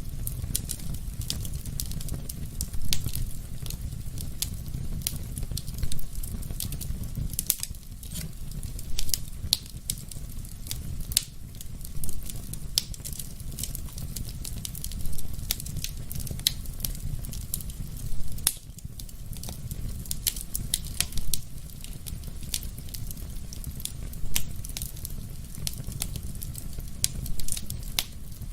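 Wood fire burning in a fireplace: a steady low rumble of flames with frequent sharp crackles and pops at irregular intervals, a few of them louder.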